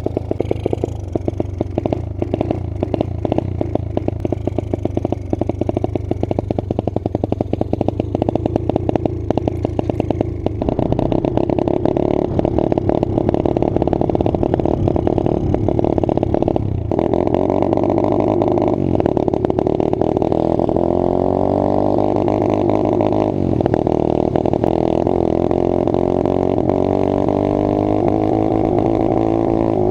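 Single-cylinder pit bike engine running, choppy and pulsing at first, then revving up and down repeatedly as it is ridden, with a short drop in revs partway through. It is being tried just after its ignition timing was adjusted for poor running, and sounds better to the riders.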